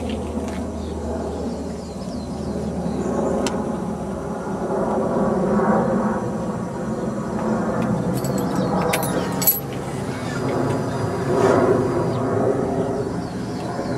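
Yamaha R1's inline-four engine running through a Two Brothers aftermarket exhaust, the revs swelling and dropping back, about six seconds in and again near the end, with a few sharp clicks a little past halfway.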